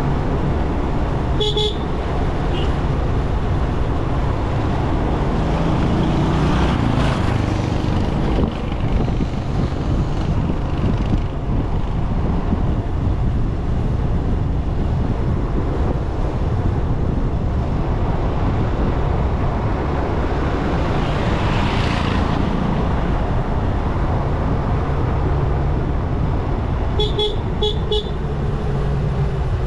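Motorcycle engine running steadily under rushing wind noise. A horn beeps once about a second and a half in, then gives three or four quick beeps near the end.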